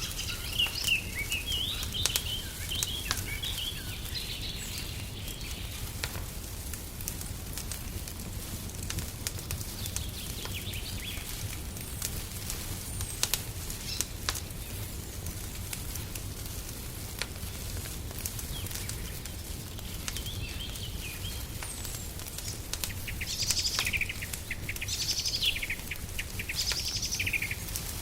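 Wood fire crackling in a fireplace: scattered sharp pops and crackles over a steady low rumble. Small songbirds chirp and sing at the start, briefly around ten seconds in, and again near the end in quick falling trills.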